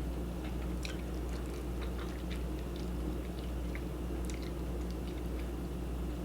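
Close-up chewing and mouth sounds of someone eating ramen noodles and shrimp: soft, scattered wet clicks, over a steady low hum.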